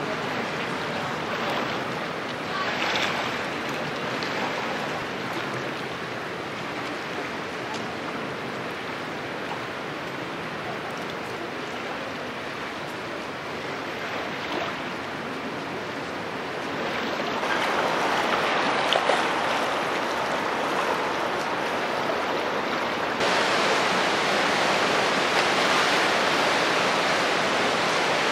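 Rushing water of the flooded Rhine, a steady noise without any distinct events. It swells about two-thirds of the way through, then steps up suddenly near the end.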